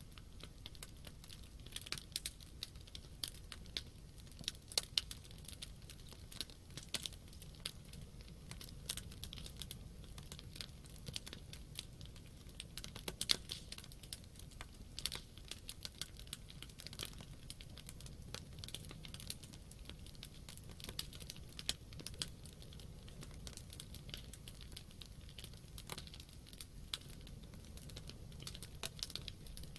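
Wood campfire crackling and popping. Irregular sharp snaps come several times a second over the low rush of the flames.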